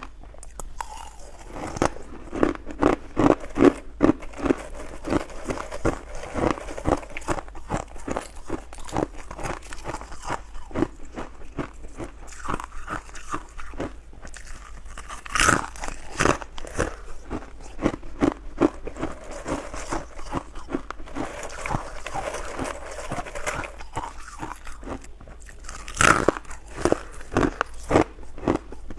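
Ice being bitten and chewed close to the microphone: a steady run of crisp crunches, two or three a second, with a louder crack at about fifteen seconds and again near the end.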